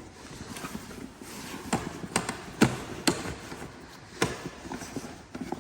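Irregular light taps and knocks: about a dozen short, sharp hits spaced unevenly, with two louder ones near the middle.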